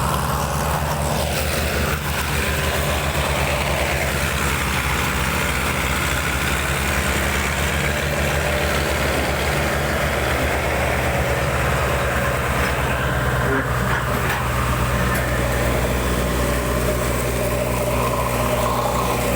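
Heavy diesel engine of a tractor or backhoe loader running steadily at low revs, with a deep even throb.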